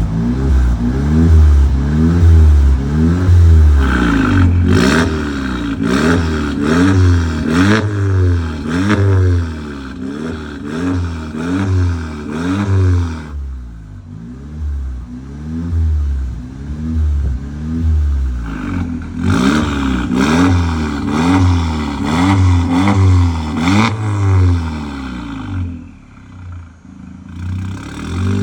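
Skoda Octavia engine heard through a split exhaust with tailpipe tips, revved repeatedly in throttle blips, its pitch rising and falling about once a second, with a quieter stretch partway through.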